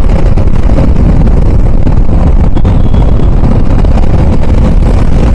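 Wind buffeting a chin-mounted helmet mic while riding a motorcycle, a loud, steady, low rumble of wind noise blended with the bike's running and road noise; it gets past the mic's foam and furry windscreen.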